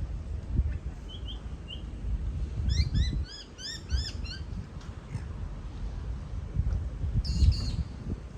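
Birds calling: three short chirps, then a quick run of about seven repeated arched notes about three seconds in, and a brief higher call near the end, over a low rumble.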